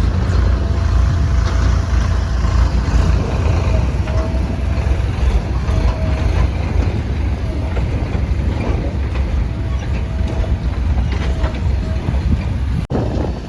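Diesel engine of heavy earthmoving or farm machinery running with a loud, steady, deep rumble.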